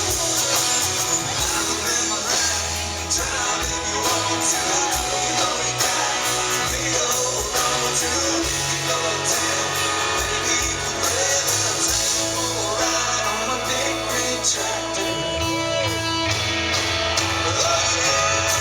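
Live country-rock band playing, with electric guitar over the band and a voice singing.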